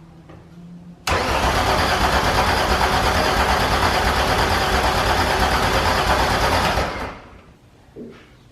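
VW VR6 engine being cranked over by the starter: a loud, evenly pulsing churn that starts suddenly about a second in and stops near the end without the engine catching. Fuel is now reaching the engine, but it throws a cam sensor fault code.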